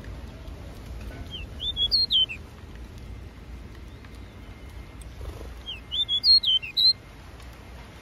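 A small bird chirping: two short runs of quick, high whistled notes, about four seconds apart, over a steady low background hum.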